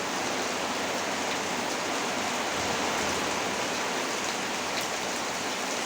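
Heavy rain pouring steadily, a dense even hiss with a few faint drop ticks.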